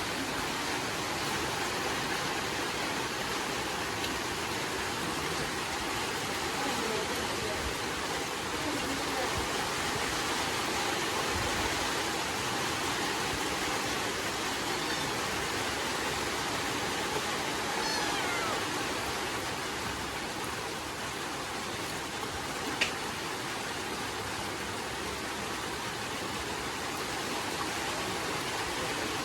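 Steady rain falling, an even hiss with no let-up, with one sharp click about 23 seconds in.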